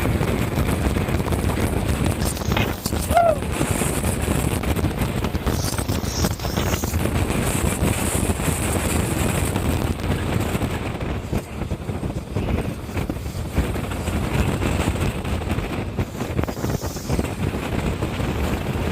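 Roller coaster ride heard from the train: a steady, loud rush of wind over the microphone mixed with the train's rumble along the track. There is a brief yelp about three seconds in.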